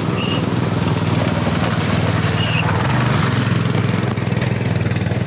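A small engine running steadily at an even pace, with two short high chirps over it.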